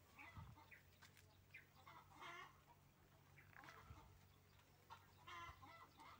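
Faint bird calls, a handful of short calls spread through, over a low steady hum.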